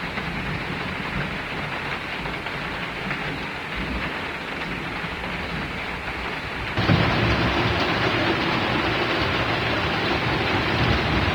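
Steady heavy rain, with a low rumble under it; about seven seconds in it suddenly becomes louder and brighter.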